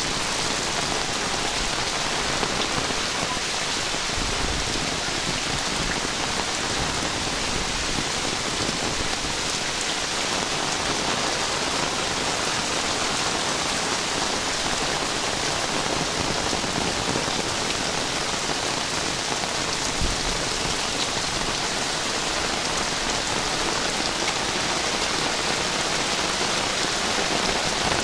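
Heavy rain falling steadily, hitting the surrounding surfaces.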